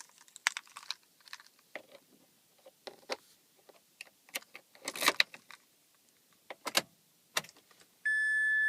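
Car keys jangling and clicking as the other key is handled and put into the ignition, in scattered short rattles. Near the end a steady electronic beep begins.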